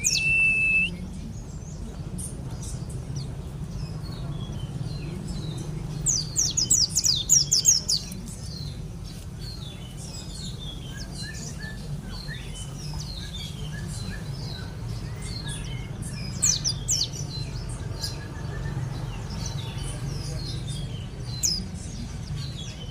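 Mountain white-eye (pleci monty) singing continuously: rapid runs of quick, falling, high notes, loudest in bursts around six to eight seconds in and again around sixteen seconds, over a steady low hum.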